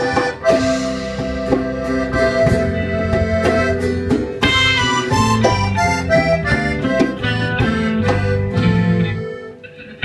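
Live band playing an instrumental passage: sustained, reedy lead notes over drum hits and a bass line. The music drops away near the end.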